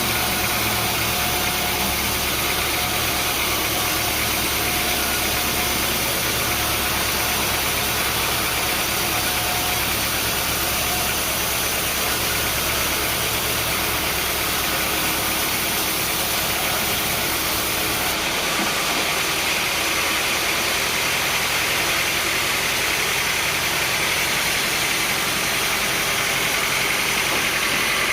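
An engine and machinery running steadily under a loud, even noise, with an abrupt change in tone about two-thirds of the way through.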